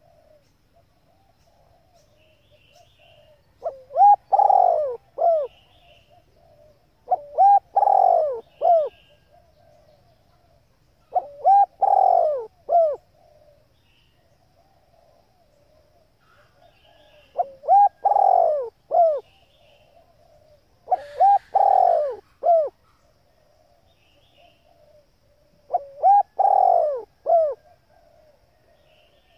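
Spotted dove cooing in a call the uploader presents as a hen's: six short, loud phrases of a few notes each, about every four seconds. A faint soft murmur runs between them.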